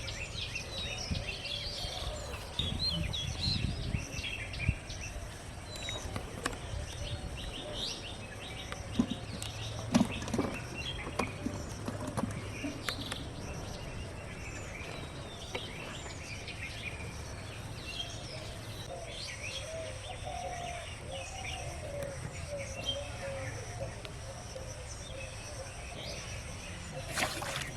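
Many small birds chirping over a steady outdoor background, with a few sharp knocks about ten seconds in.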